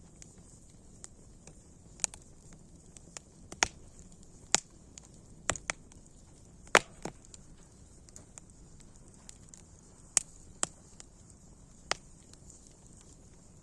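Wood fire crackling: irregular sharp pops and snaps, about a dozen of them, the loudest about halfway through, over a faint steady hiss.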